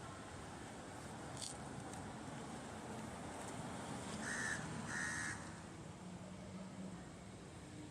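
Two short, harsh bird calls about half a second apart, midway through, over a steady outdoor background hiss.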